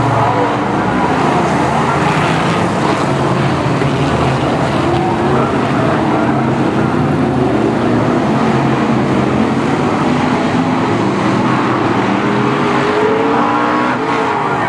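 A pack of Brisca F1 stock cars racing, their V8 engines running hard together. Several engine notes overlap and rise and fall as the cars accelerate and lift around the oval.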